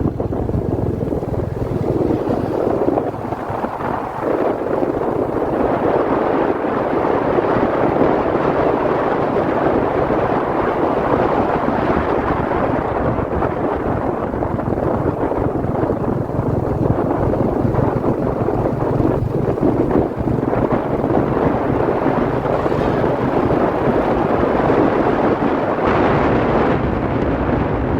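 Wind buffeting the microphone on a moving motorcycle, over the steady running of a Royal Enfield Classic 350's single-cylinder engine.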